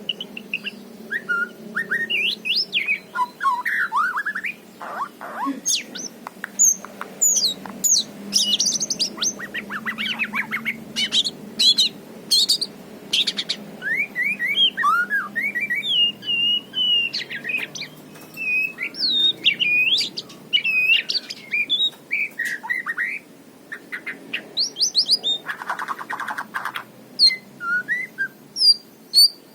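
White-rumped shama singing a long, varied song of clear whistles, sliding notes and rapid trills, with a harsh buzzy phrase about three-quarters of the way through.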